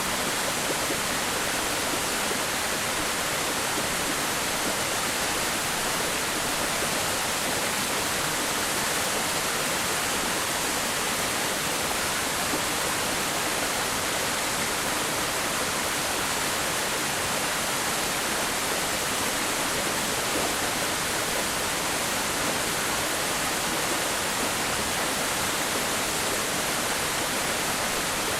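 Waterfall, a steady rushing of falling water that does not change.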